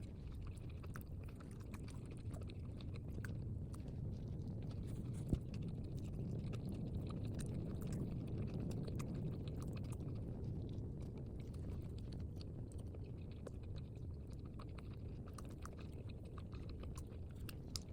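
Someone chewing a bite of chicken paratha roll close to the microphone: many small chewing clicks over a low steady rumble, with one sharper knock about five seconds in.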